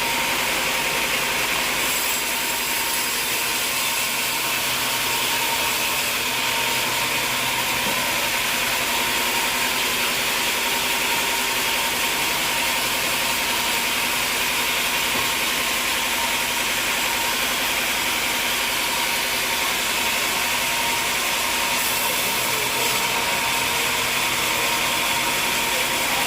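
Machinery running steadily with a constant high whine over an even mechanical noise, without change in speed or load.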